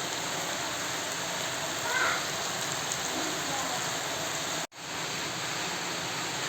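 Chicken frying in a pan with a steady sizzle. The sound breaks off in a brief dropout a little over two-thirds of the way through, then the sizzle resumes.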